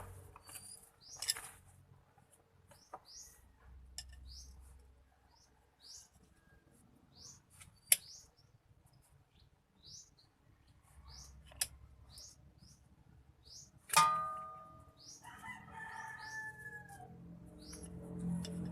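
A small bird chirping over and over in short high notes, with a few sharp clicks and one louder metallic clink that rings briefly about fourteen seconds in.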